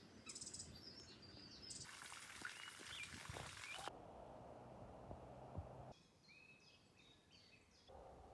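Faint outdoor ambience with short bird chirps near the start and a run of bird calls in the second half. The background changes abruptly every couple of seconds, from a light hiss to quieter stretches.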